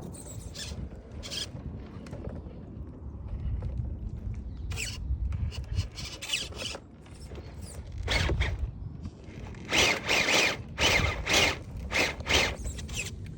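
RC crawler truck's electric motor and geared drivetrain, differentials locked, whirring and squealing in short bursts as the throttle is pulsed to climb a log. The loudest run comes near the end: about six quick bursts.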